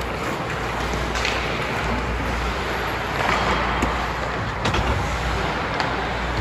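Ice hockey rink ambience during play: a steady roar with a low hum, skates scraping on the ice and a few sharp stick-and-puck clacks.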